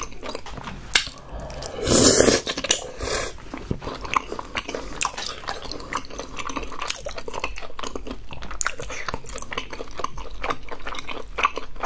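Close-miked chewing of chewy tteokbokki rice cakes in thick sauce: a steady run of small wet, sticky clicks and smacks. One loud, short noisy burst about two seconds in is the loudest sound.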